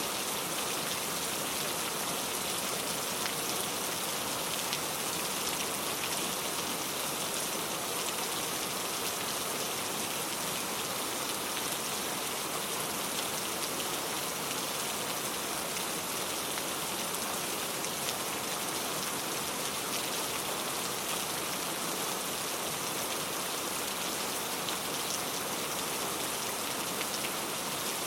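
Heavy rain falling steadily, a dense even hiss of drops striking a surface with fine ticking from individual drops.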